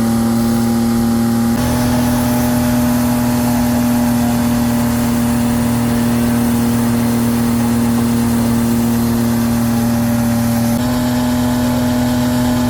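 Vehicle engine held at high, steady revs during a burnout, its pitch stepping up slightly about a second and a half in and again near the end.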